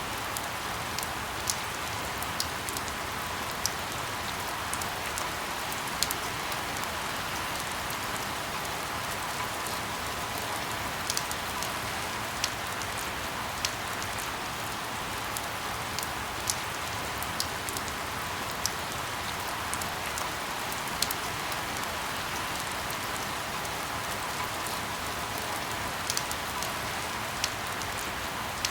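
Steady rain falling, an even hiss with sharp ticks of single drops scattered irregularly through it.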